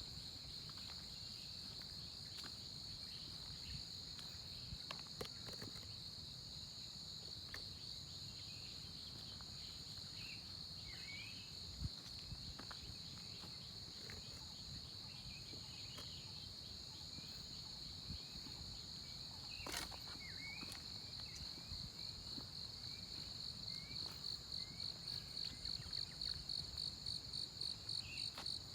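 A steady, high-pitched insect trill, with a few short bird chirps now and then. Near the end the trill turns into a fast pulsing and gets louder.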